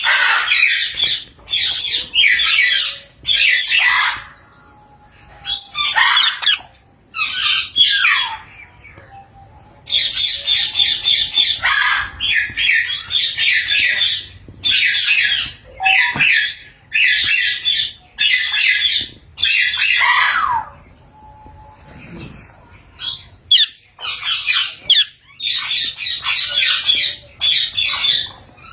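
Parrot squawking and chattering in harsh, loud bursts of one to two seconds with short pauses between them; several calls end in a downward slide, and it goes quiet briefly twice.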